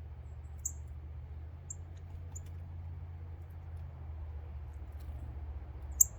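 Wild birds at a feeder giving a few short, high chip calls, four in all, the loudest near the end, over a steady low rumble.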